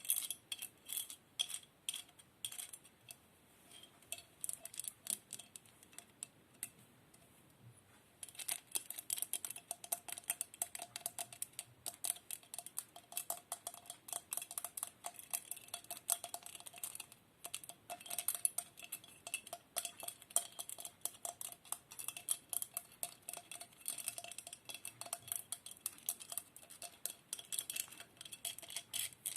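Close-up ASMR trigger sounds: rapid small clicks and taps on hard objects. They thin out a few seconds in and become dense again from about eight seconds on.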